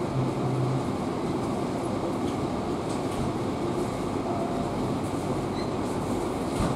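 Passenger train carriage rolling along the rails, heard from inside: a steady rumble of wheels and running gear with a few faint clicks, and a short low hum near the start.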